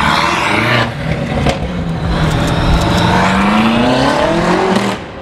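BMW M8 Competition's twin-turbo V8 with an FI aftermarket exhaust, loud as the car accelerates away, its engine note climbing through the revs with short breaks about one and one-and-a-half seconds in, then a long rise.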